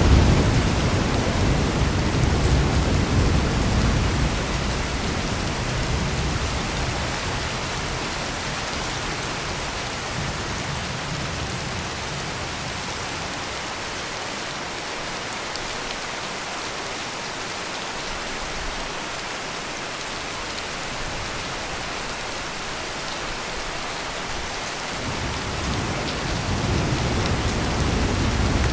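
Heavy rain pouring steadily, with low rolling thunder that fades away over the first several seconds and another rumble of thunder building near the end.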